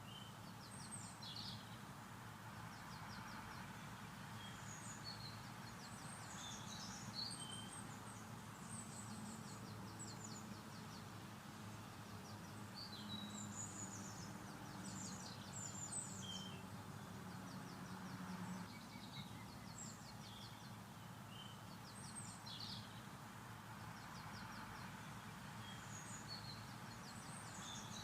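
Dusk birdsong from several birds: short high chirps and repeated rapid trills throughout, over a steady low background hum.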